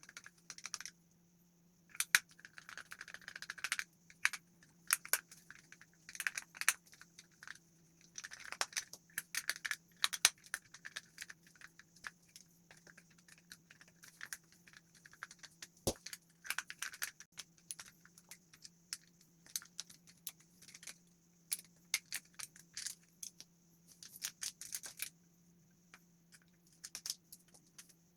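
Hands handling small hard parts, plastic and metal, making irregular clicks, taps, rattles and rustles in clusters, over a faint steady hum.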